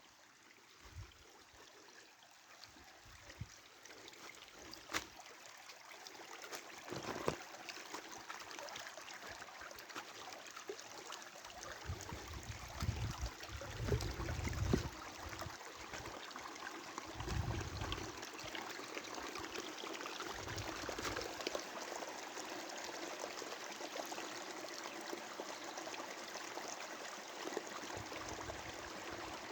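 Rainwater running and trickling, a steady wash of water sound that builds up over the stretch, with a few dull low thumps in the middle.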